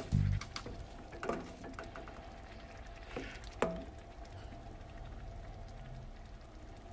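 Squid in black ink sauce frying in a stainless wok while a wooden spatula stirs it, with a few scrapes of the spatula against the pan. The sauce has cooked down nearly dry. A snatch of music cuts off at the very start.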